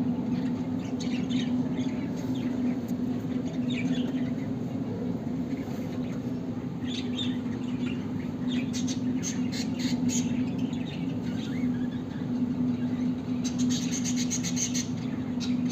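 Zebra finches calling in many short, quick chirps, busiest in a spell just past the middle and again near the end, over a steady low hum.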